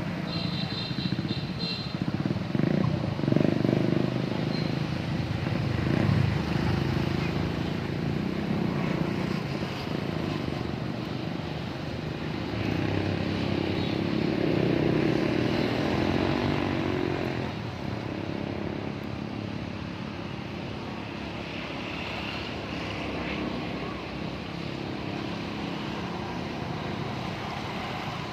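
Motor vehicle engine running steadily, its pitch wavering and rising a little in two stretches before it settles lower.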